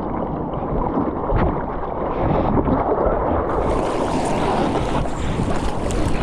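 Ocean water and surf rushing, with wind buffeting the microphone. About three and a half seconds in the sound turns brighter and hissier.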